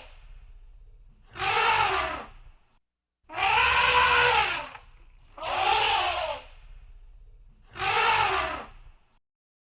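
Elephant trumpeting: four loud, harsh calls, each about a second long and rising then falling in pitch, the second one the longest. A low rumble runs under the calls and in the gaps.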